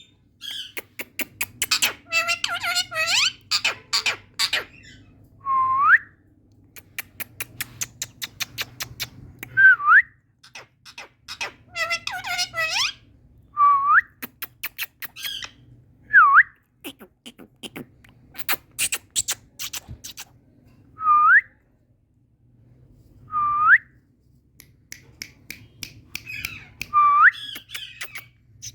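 Indian ringneck parakeet vocalising: bouts of rapid clicking and chattering, broken every few seconds by a short whistle that dips and then sweeps upward.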